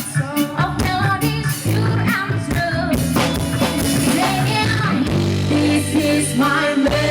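Live band playing a reggae song: a singer's voice over drums and a steady bass line.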